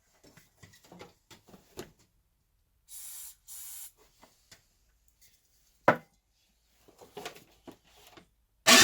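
Handling knocks and clicks on a 50cc moped, then two short hisses of starting fluid (ether) sprayed into the engine's intake, and one sharp knock. A loud rhythmic mechanical noise, the engine being cranked, begins right at the end.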